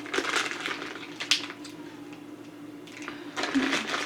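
Crinkly plastic packaging of a bag of ginger chews rustling in short bursts as a hand digs in for an individually wrapped piece, with a sharper crinkle a little past a second in.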